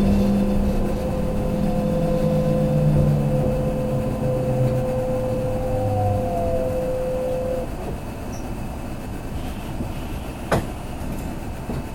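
Kintetsu limited express train slowing to a stop, heard from inside the car: the motor whine falls in pitch and dies away about eight seconds in, leaving a quieter hum. A single sharp click comes near the end.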